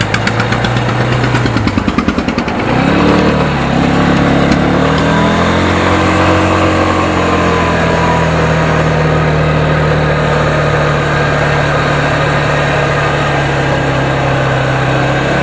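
Vehicle engine idling with an even, pulsing beat, then revving up about three seconds in as it pulls away and running on steadily.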